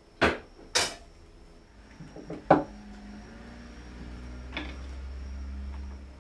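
Kitchenware knocking and clinking: two sharp knocks in quick succession, then a few lighter clinks and one loud knock about two and a half seconds in. A low steady hum comes in about four seconds in.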